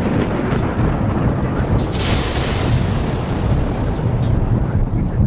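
A motorboat running across open water, a steady low rumble of engine and rushing water, with a brief surge of hiss about two seconds in.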